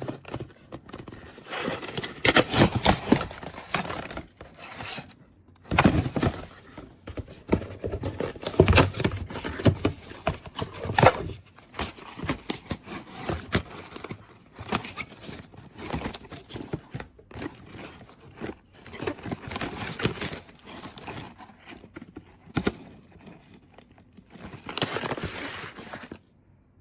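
Handling noise: irregular rustling, crinkling and scraping with sharp knocks, as of packaging and plastic parts being handled, with no steady blow-dryer motor running.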